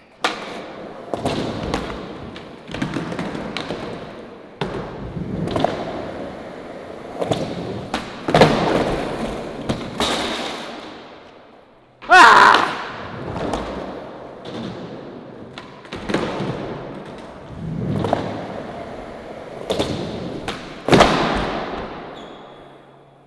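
Skateboard trick attempts, repeated more than a dozen times: each is a sharp crack of the board popping or slamming down on the ground, followed by the wheels rolling and fading out. The attempts are at a backside 360 blizzard flip, and the loudest slam comes about halfway through.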